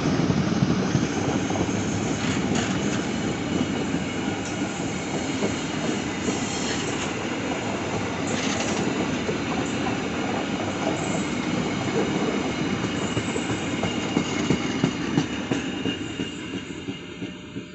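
A train passing close by on the line: a steady rumble of wheels on rail with occasional clicks over rail joints, dying away near the end as it moves off.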